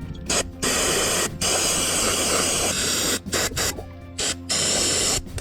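Aerosol cleaner spraying in hissing bursts to wash valve grinding compound off a freshly lapped valve and seat. There are two long sprays in the first three seconds, then shorter ones near the end.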